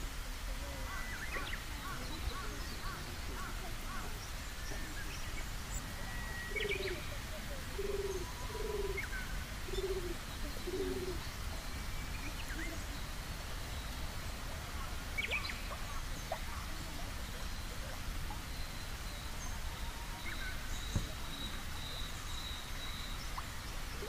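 Birds calling outdoors: small birds chirping on and off throughout, and in the middle a run of five low cooing notes about a second apart, over a steady low outdoor rumble.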